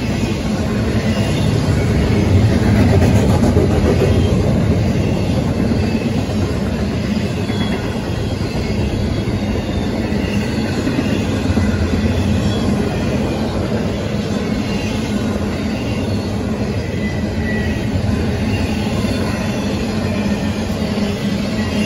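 Double-stack intermodal freight cars rolling past: a steady rumble and clatter of steel wheels on the rails, with a few brief, faint wheel squeals.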